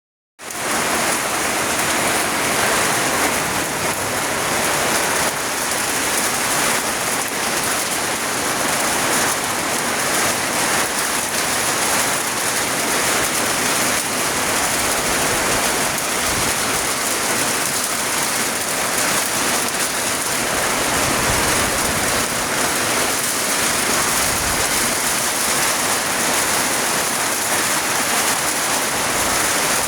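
Rain falling hard and steadily in a strong wind, an even, loud rushing hiss.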